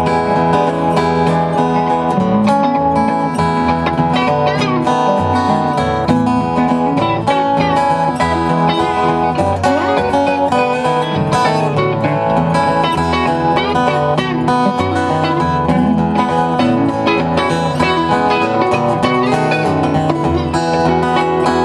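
A live country band plays an instrumental break over strummed acoustic guitar, with a lead line of sliding notes in the middle.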